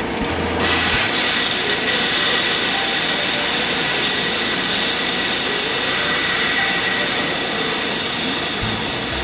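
Air hissing steadily out of a truck tire's valve, starting abruptly about half a second in, as pressure is let down from an over-inflated tire in the heat.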